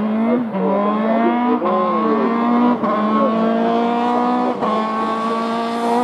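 Hill-climb race car's engine at full throttle, accelerating through the gears: the pitch climbs steadily, then drops sharply at each upshift, about four times.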